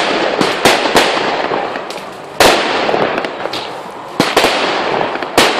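Fireworks display: a rapid series of sharp bangs, several seconds apart at most, over a continuous crackle from exploding shells.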